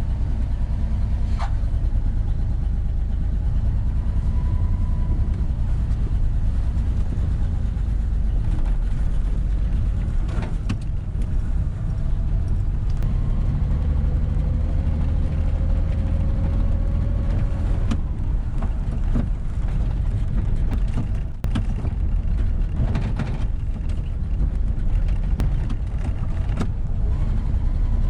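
1978 Ford F-150 pickup being driven: a steady low engine and road rumble, with scattered clicks and knocks over it.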